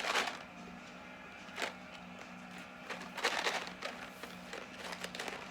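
Plastic candy packaging being handled: a few short bursts of rustling and crackling, the longest about three seconds in, over a steady low electrical hum.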